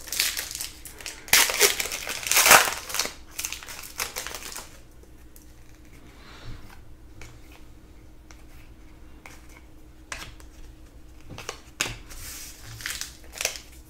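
Crinkling and rustling of trading-card packs and cards being handled, in bursts for the first few seconds and again near the end, with a quieter stretch of light clicks in between.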